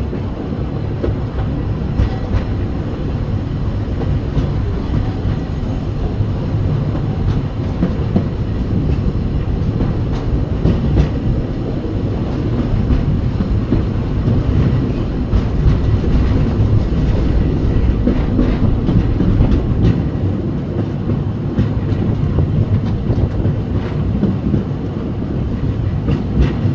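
Disney steam train's passenger car rolling along the track: a steady low rumble with scattered clicks of the wheels over the rails.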